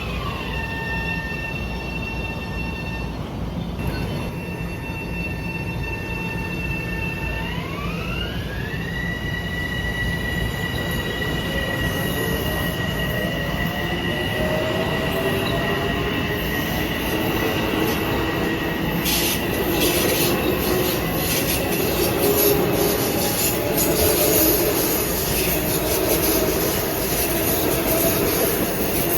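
Long Island Rail Road train moving at the station, its electric drive giving a high whine that steps down in pitch, holds, then steps back up about eight seconds in. Lower motor tones then rise slowly as it picks up speed. The rumble and wheel noise grow louder, with a quick run of clicks about two-thirds of the way through.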